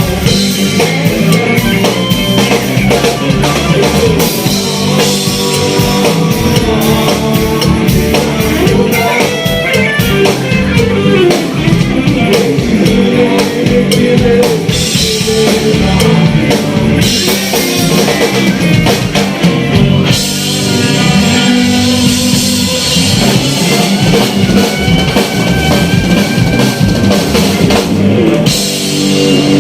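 A live band playing rock music, with drum kit and guitar carrying a steady beat.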